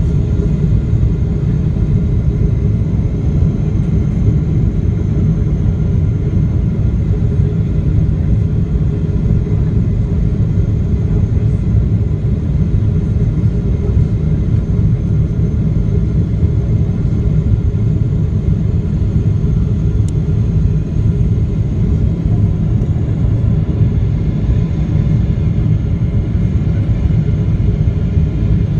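Steady low rumble inside the cabin of a Boeing 777-300ER airliner, engine and airflow noise, with faint steady whining tones above it and no change in level.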